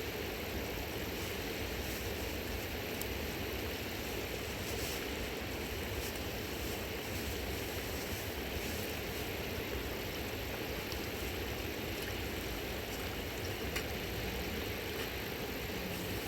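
A river rushing over rocks, a steady, unbroken noise.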